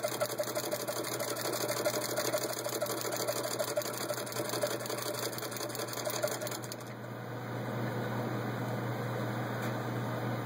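Hand-cranked Singer 66 sewing machine driving a Singer ball-bearing pinking attachment, clattering in a fast, even rhythm as it pinks vinyl upholstery. The cranking stops about seven seconds in, leaving a steady hum.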